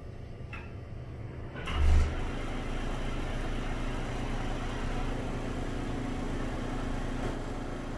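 An old, rattly Broan exhaust fan switching on. A loud low thump comes as the motor starts, just under two seconds in, and the fan then runs steadily with a low hum over a noise haze.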